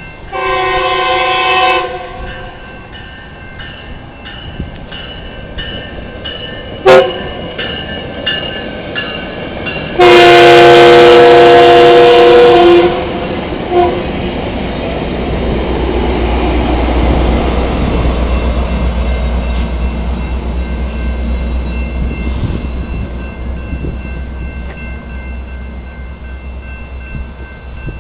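Metrolink commuter train's horn sounding several times: a blast near the start, a short toot, then a long loud blast and a quick toot, while a bell rings steadily. The train then rumbles in low and heavy, swelling and slowly fading as it pulls into the station.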